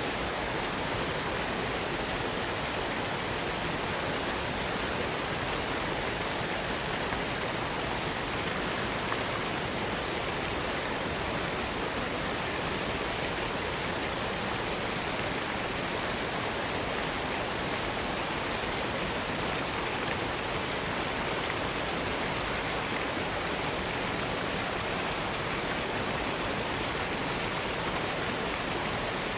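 Waterfall rushing, a steady, even roar of falling water without changes.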